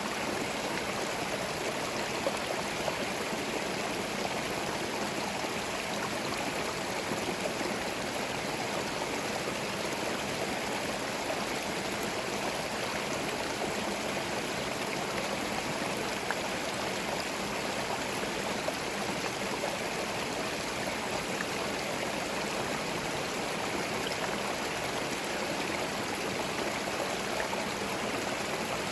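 Forest stream running over stones: a steady, even babble and rush of flowing water.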